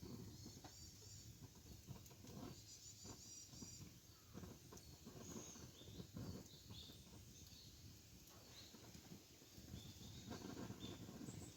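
Faint wood fire crackling, with scattered sharp pops from the burning wood, and bursts of high repeated chirping calls in the background.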